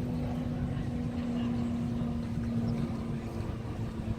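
A steady low mechanical hum, like an engine or motor running, holding one pitch.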